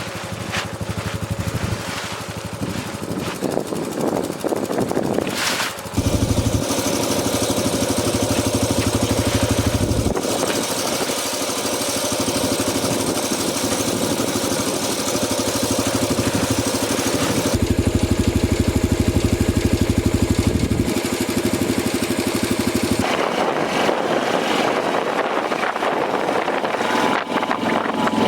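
An engine or motor running steadily, with its sound changing abruptly several times.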